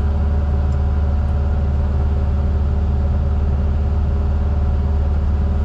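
Heavy diesel engine running steadily at constant speed, a deep, even drone with no change in pitch.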